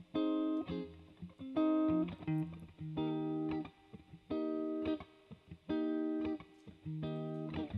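Guitar playing the instrumental intro of a slow R&B song: sustained chords, one about every second and a half, with short breaks between them.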